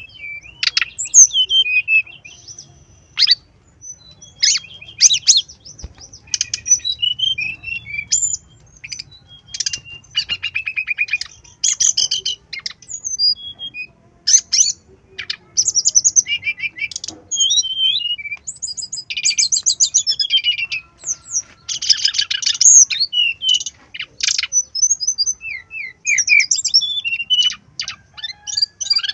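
Brown-chested jungle flycatcher song, a lure recording played to set caged birds singing: fast chattering trills and short high whistled notes in phrases, with brief gaps between them.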